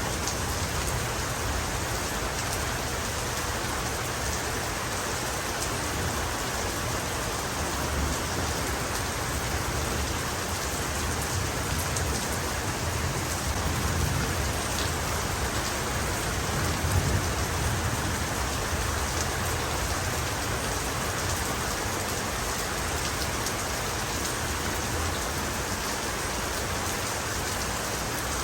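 Heavy rain falling steadily, an even hiss of drops on surfaces, with a few soft low rumbles of thunder underneath.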